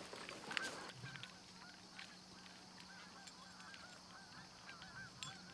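A flock of Canada geese honking faintly in the distance, many short calls overlapping continuously, with a few light clicks near the start.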